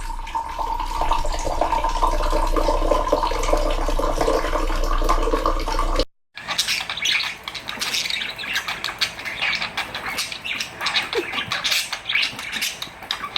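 Pet parrot chirping and squawking in two separate clips, cut apart by a moment of silence about six seconds in.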